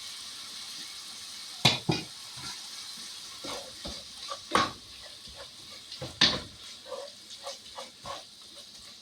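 Ground beef sizzling in a frying pan, a steady hiss, with three sharp clinks of a utensil and a few lighter clicks.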